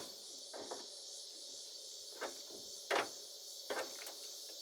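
Several short knocks and clicks, about five in all and loudest about three seconds in, from the hood and its newly fitted hood latch on a 1969 Ford F-250 being worked, over steady insect chirring.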